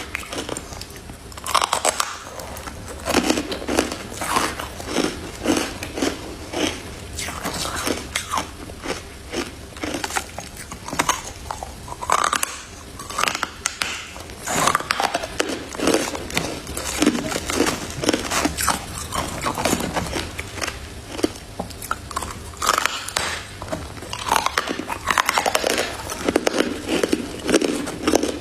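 A person biting into and chewing crunchy white freezer frost ice: a dense, irregular run of crunches and crackles.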